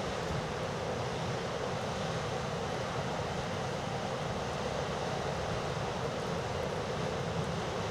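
Steady rushing noise of storm wind and breaking surf.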